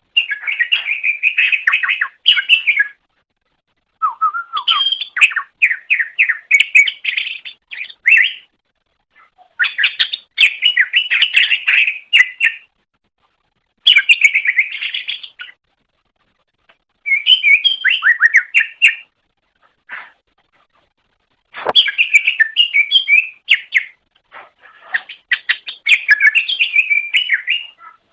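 Greater green leafbird (cucak ijo) singing loudly in a run of fast, chirping, warbling phrases, each two to four seconds long with short pauses between them.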